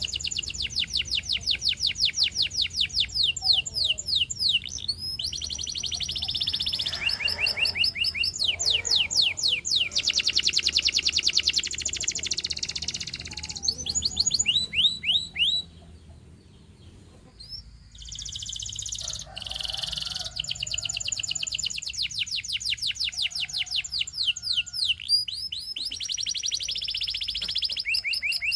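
Canary singing: long fast trills of rapidly repeated high notes, one phrase running into the next, with a break of about two seconds a little past the middle.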